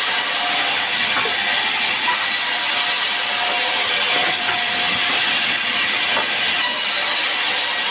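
Sawmill saw cutting sengon wood: a steady, loud hiss with faint high whining tones.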